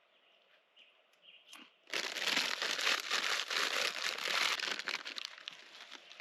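Potato chips being crushed by hand inside their bag: loud crinkling of the chip bag and crunching of the chips, starting suddenly about two seconds in and easing off after about three seconds.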